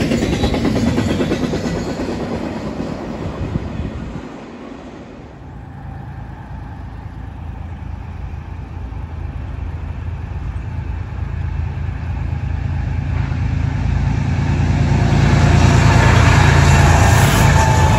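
A BNSF freight train on the move: rail cars rolling with clickety-clack that fades about four seconds in. Then the low steady rumble of diesel locomotives builds up and is loudest near the end.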